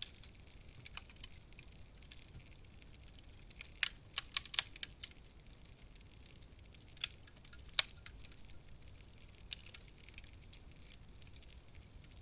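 Wood fire crackling in a fireplace: sharp pops and snaps over a faint low hiss, with a quick run of pops about four seconds in and two louder single pops a few seconds later.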